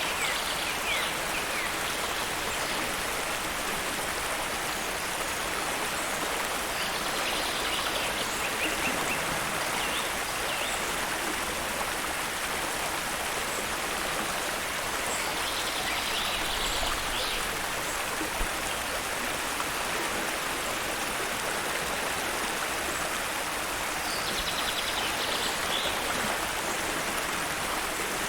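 Waterfall rushing steadily, an even hiss of falling water with no let-up. Brief high bird calls sound over it a few times.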